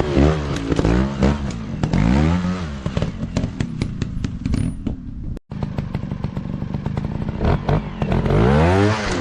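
Dirt bike engines revving up and falling back in repeated blips, with many sharp clatters throughout. The sound breaks off briefly about five and a half seconds in, then the revving resumes.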